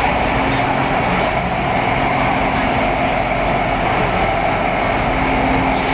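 Taipei Metro C301 train running between stations, heard from inside the car: a steady rolling, wheel-on-rail noise with a faint, even motor tone underneath.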